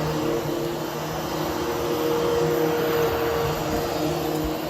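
Hoover HushTone upright vacuum running steadily as it grooms a carpet: an even motor hum with a held whine.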